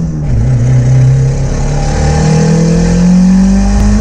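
Turbocharged Honda D16Z6 four-cylinder engine pulling hard under full acceleration, loud, heard from inside the car. The revs drop with a gear change at the start, then climb steadily through the next gear.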